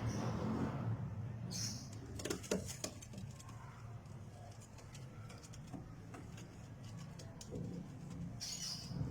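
Domestic pigeons cooing, loudest at first and then fading, with a few sharp clicks or wing flaps about two to three seconds in.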